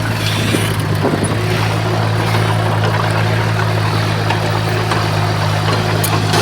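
Diesel engine of heavy earthmoving equipment, typically a bulldozer, running steadily with an even low hum.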